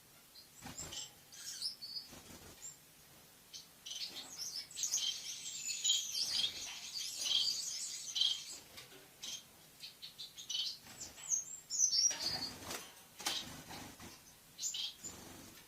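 Lovebird chattering in high, rapid chirps: scattered single chirps, then a dense run lasting about four seconds from around the fifth second. A few soft knocks or flutters come about twelve seconds in.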